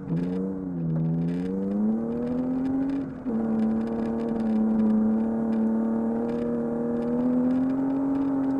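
Rally car engine heard from inside the cabin, revs climbing under hard acceleration on gravel, dropping once at a gear change about three seconds in and then rising slowly again. Faint ticks of gravel striking the car run underneath.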